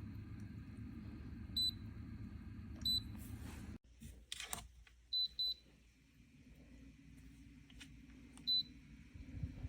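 Short, high electronic beeps from a Dreo cool-mist humidifier's touch control panel as its buttons are pressed, five in all, two of them in quick succession. A low steady rumble cuts off suddenly about four seconds in, followed by a brief rustle and a quieter hum.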